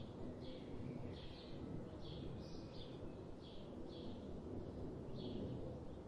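Birds chirping in a forest, short high notes repeating about twice a second over a steady low background rumble.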